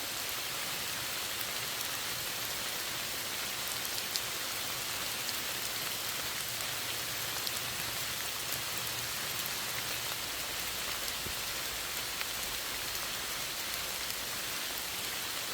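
Steady rain falling, with a continuous hiss and scattered individual drops pattering on a surface.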